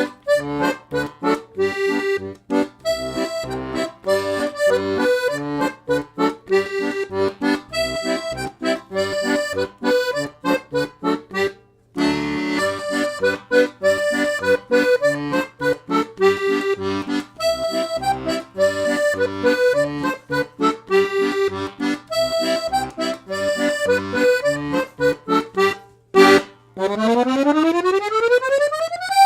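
Parrot Parakeet 3-row C-system chromatic button accordion, two reed sets on the treble, playing a tune of melody over bass-button accompaniment. The playing breaks off briefly about twelve seconds in, and near the end it runs quickly up the scale.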